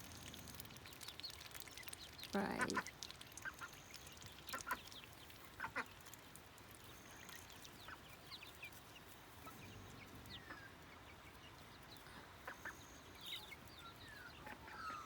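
Young chickens and a duck calling softly: scattered short peeps and chirps, some falling in pitch, with occasional duck calls.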